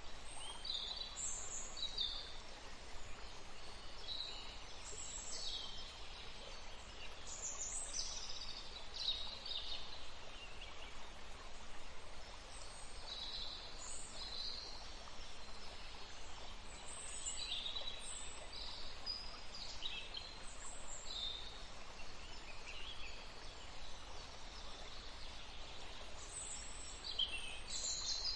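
Birds chirping now and then, short high calls scattered over a steady background hiss.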